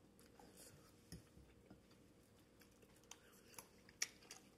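Faint mouth sounds of chewing cooked broccoli and carrots, with a few small clicks; the sharpest click comes about four seconds in.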